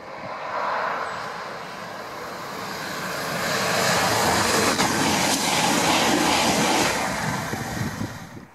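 Cross Country Class 220 Voyager diesel multiple unit passing at speed: a rushing of wheels, underfloor engines and air that builds as it approaches, is loudest for a few seconds as it goes by, then eases.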